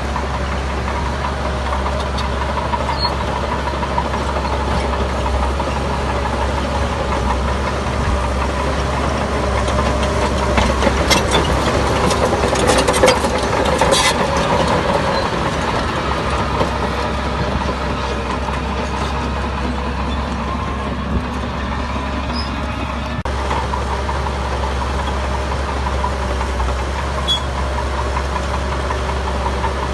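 Diesel engine of heavy earthmoving machinery running steadily, with a cluster of sharp metallic clanks between about eleven and fourteen seconds in.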